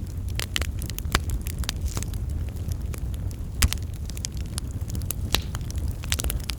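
Wood fire burning with a low steady rumble and irregular sharp crackles and pops, the loudest pop about three and a half seconds in.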